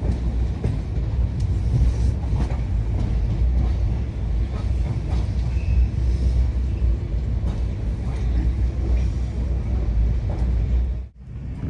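Train running, a steady low rumble with faint rattles and clicks; the sound drops out for a moment near the end.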